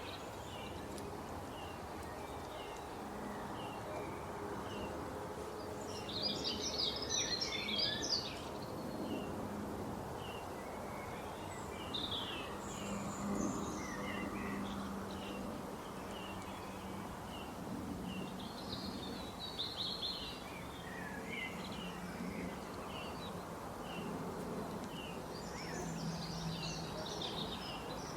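Wild birds calling: a short high note repeated about once a second, with bursts of busier chattering song four times, over a steady outdoor background with a faint low hum.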